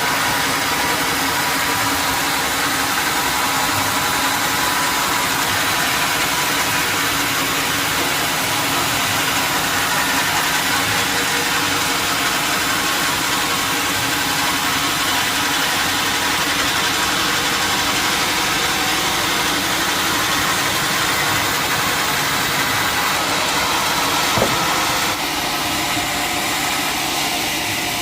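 Sawmill machinery running steadily: a dense, even mechanical noise with a constant hum. A single sharp knock comes near the end, and the sound eases slightly just after.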